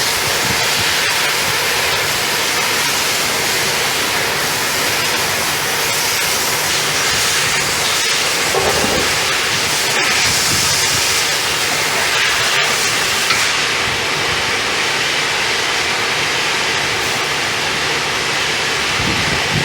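Pressure washer spraying water onto a truck, a steady loud hiss of jetting water that shifts a little as the spray moves.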